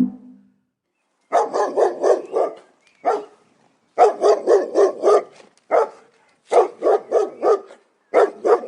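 Dog barking in quick runs of short barks, about four or five a second, broken by brief pauses.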